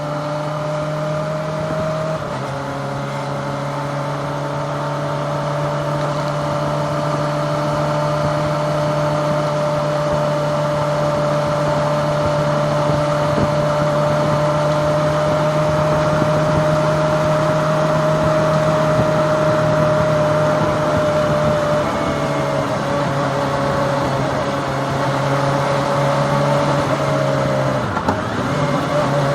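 Kawasaki ZX-25R's 250cc inline-four engine running at a steady cruise under a rush of wind and road noise. The engine note dips briefly about two seconds in, and wavers again with throttle changes near the end.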